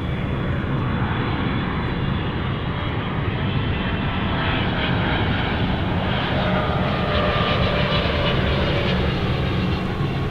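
Boeing 777 cockpit noise on final approach: a steady rush of airflow and engine sound, with faint whining engine tones that drift slowly in pitch as thrust is adjusted.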